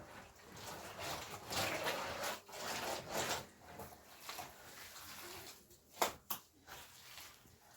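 Scraping and rustling of soil being worked by hand, in rough bursts, with two sharp knocks about six seconds in.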